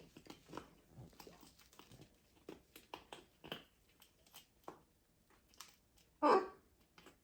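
Blue-and-gold macaw making small scattered clicks and taps, then giving one short, loud call about six seconds in that falls in pitch.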